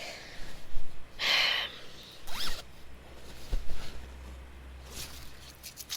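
A bag's zipper pulled open in several quick strokes, then a soft thump and a few light clicks.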